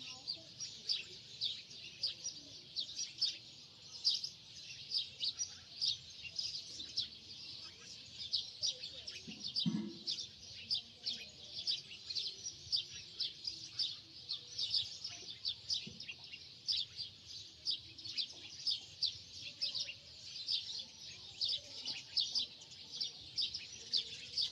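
Birds chirping continuously, many short high chirps several a second, with a brief low sound about ten seconds in.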